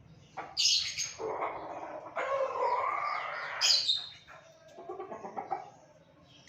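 Hens calling: a few short high chirps and a longer, wavering drawn-out call in the middle, with softer calls near the end.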